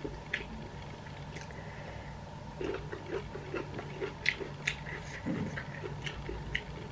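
A person eating close to the microphone: soft chewing and mouth sounds with small sharp clicks and lip smacks, coming more often from about two and a half seconds in.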